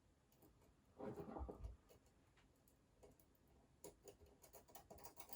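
Faint handling of small metal construction-kit nuts and bolts: a brief rustling clatter with a soft thump about a second in, then scattered light ticks.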